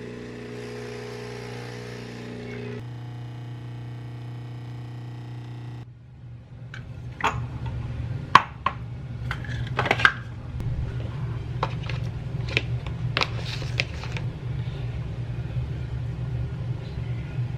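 Soft held music chords for about six seconds. Then a steady low hum with scattered sharp clicks and knocks of kitchen things being handled, the loudest about eight and ten seconds in.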